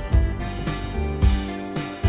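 Instrumental karaoke backing track between sung lines, with held chords and a steady low beat.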